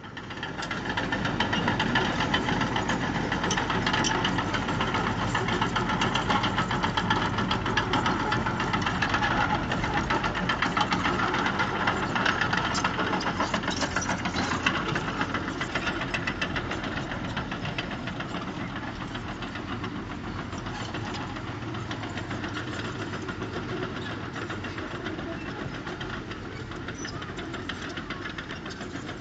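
Diesel engine of a heavy earthmoving machine running hard with a rapid, even knocking. It comes in loud about half a second in and eases off somewhat over the second half.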